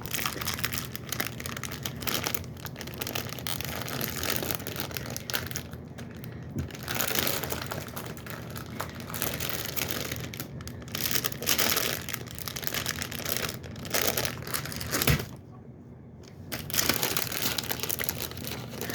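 Plastic packaging crinkling and crackling as it is handled and pulled at to open it, in stretches broken by short pauses.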